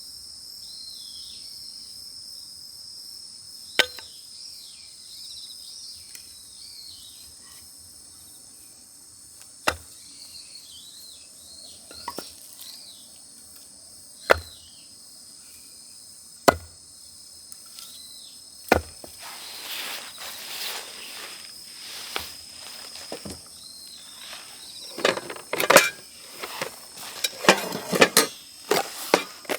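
Five sharp knocks a few seconds apart over steady insect chirring, like wood being struck. About two-thirds of the way through, rustling sets in, and near the end it turns into a quick run of clattering knocks.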